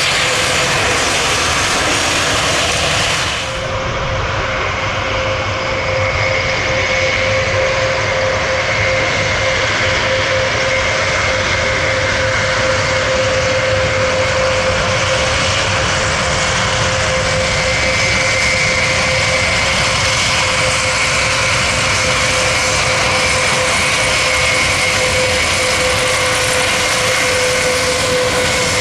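Airbus A400M Atlas's TP400-D6 turboprop engines running steadily, a loud even engine noise with a constant whine held throughout. The highest treble drops away suddenly about three and a half seconds in.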